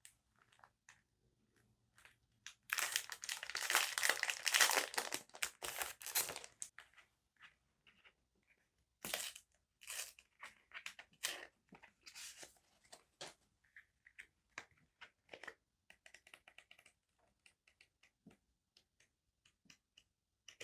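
Stationery paper and its packaging being handled close to the microphone: a dense stretch of crinkling and tearing for about four seconds starting near the three-second mark, then scattered short rustles and light taps.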